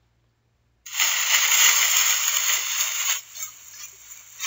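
Recorded sound effect of leaves rustling in the wind. It starts about a second in, is loud for about two seconds, then drops to a softer rustle.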